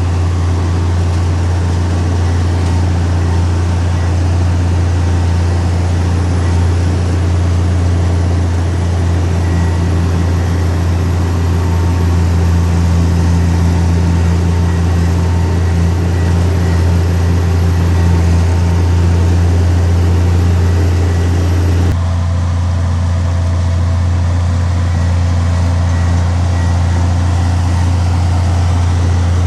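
Heavy earthmoving machinery's engine running steadily with a deep, unbroken hum. The tone changes abruptly about 22 seconds in.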